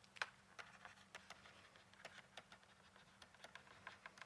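Near silence with faint, irregular light clicks, a few to the second, over a faint steady hum.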